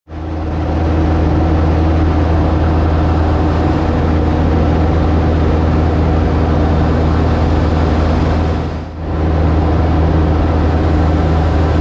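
Cub light aircraft's piston engine and propeller running steadily at a constant pitch, heard from the cockpit. The sound cuts in abruptly at the start and dips briefly about nine seconds in.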